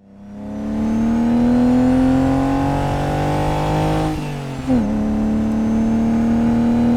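BMW E46 330i's M54 straight-six through a Scorpion stainless steel exhaust, accelerating with the pitch rising steadily, then dropping sharply about four seconds in at a gear change before pulling and rising again.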